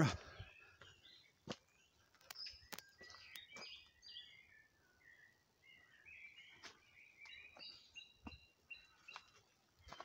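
Birds singing faintly: scattered short chirps and whistled phrases, with a few sharp clicks mixed in.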